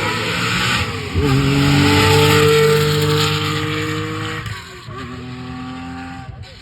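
Porsche rally car engine accelerating hard. Its pitch rises, then dips at a gear change about a second in; it holds loud at high revs, then drops to a lower, quieter note as the driver eases off near the end.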